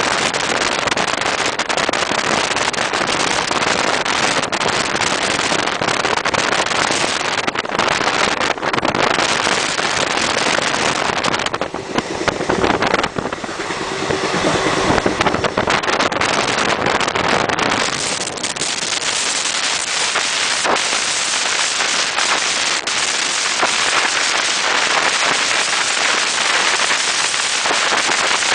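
Wind rushing over the microphone at the open window of a moving passenger train, mixed with the train running over the rails, with many sharp clicks.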